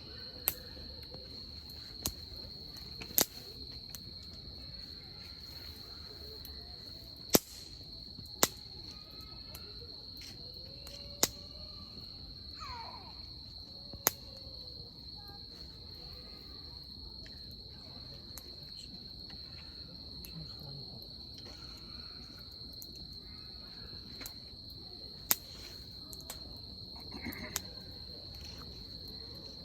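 Wood campfire crackling, with sharp pops every few seconds at irregular intervals, over a steady high chirring of insects.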